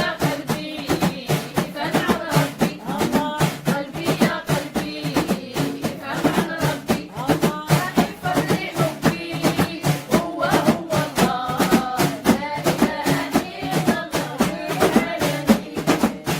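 Devotional dhikr chanting: voices singing religious praise over a fast, even percussion beat.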